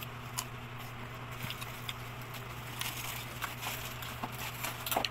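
A person chewing ripe mango, heard as soft scattered mouth clicks and smacks, with one sharper click near the end. A steady low hum runs underneath.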